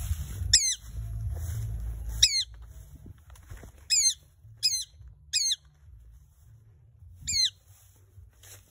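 A bird calling six times, each call a short, sharp note that drops quickly in pitch. Low rustling and handling noise from walking through undergrowth runs under the first two calls and stops about two seconds in.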